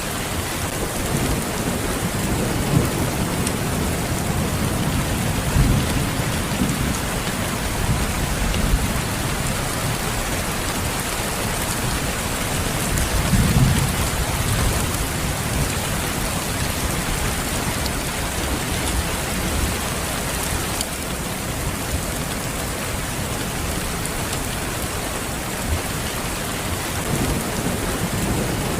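Steady rain falling, an even hiss throughout, with a few low rumbles of distant thunder swelling in the first half, the strongest about halfway through.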